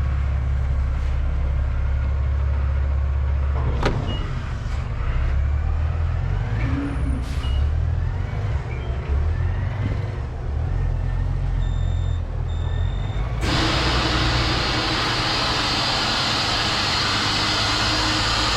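Semi truck's diesel engine idling with a steady low rumble; a sharp click about four seconds in, two short beeps just before a loud steady hiss that comes in about two-thirds of the way through and holds.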